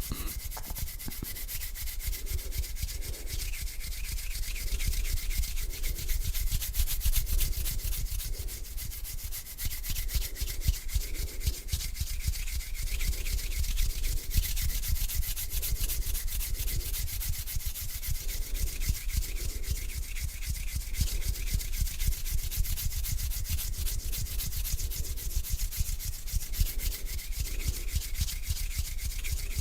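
Hands rubbing together in slow back-and-forth strokes: a dry skin-on-skin swishing that swells about once a second.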